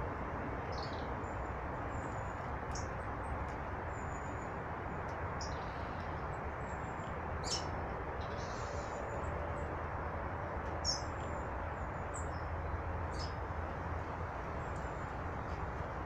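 Small birds giving short, high chirps and calls every second or so, the sharpest about halfway through and again near eleven seconds, over a steady low rushing background.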